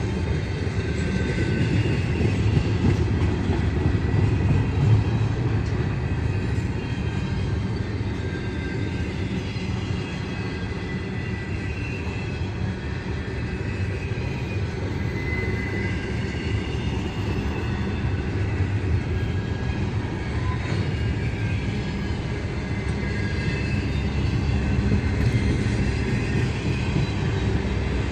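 A train rolling past: a steady rumble of wheels on rail, with faint high squeals now and then.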